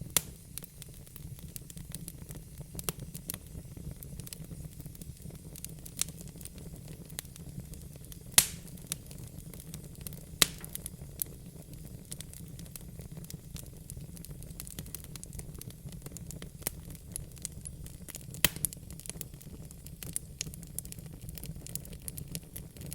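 Wood fire crackling in a fireplace: irregular sharp pops and snaps, the loudest about eight seconds in, over a steady low rumble of burning.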